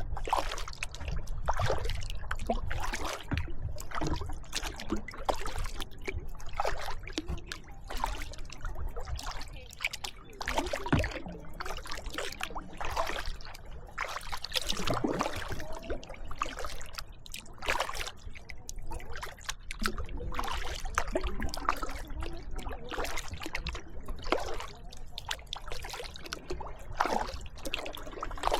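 Kayak being paddled: paddle blades dipping and pulling through the water, with splashing and dripping in an irregular rhythm of about one stroke a second, over a low rumble.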